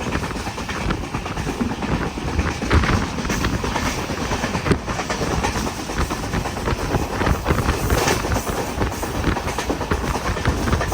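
A train running on the rails: a steady, dense rumble and rattle with many short, irregular knocks.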